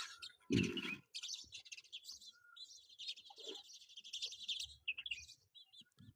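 Small birds chirping in quick, high twitters, with a brief rustle or thump about half a second in.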